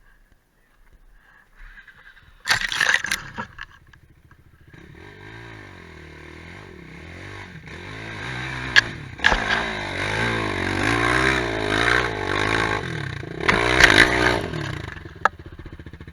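Quad bike engine revving unevenly, its pitch rising and falling with the throttle as it comes closer and louder, then dropping away near the end. A short loud noisy burst about two and a half seconds in, before the engine is heard.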